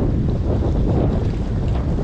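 Wind buffeting the microphone in a steady low rumble, over the wash of waves on the shore.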